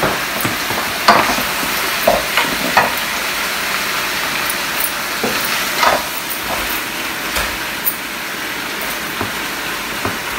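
Potato and aubergine pieces sizzling in oil in a wok, with a spatula scraping and knocking against the pan now and then as they are stirred.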